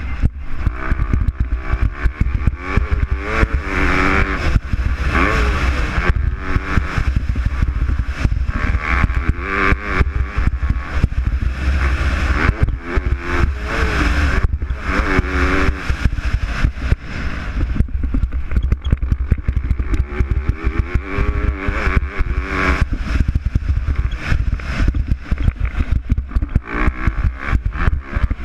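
MX2-class motocross bikes racing, their engines revving up and falling back again and again through gear changes and throttle blips.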